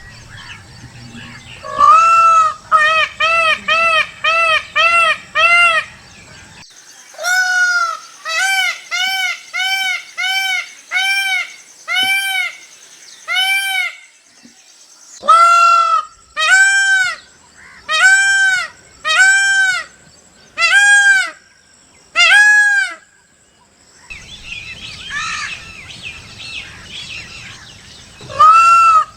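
Indian peafowl (peacock) calling: loud, nasal, honking calls in runs, each run opening with a longer call and going on with shorter ones about two a second. There are three such runs, then a quieter stretch of background noise, then another run starting near the end.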